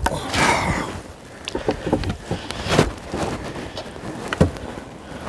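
Irregular metal knocks and clicks with a short scrape near the start: a pry bar working fittings off a high tunnel frame.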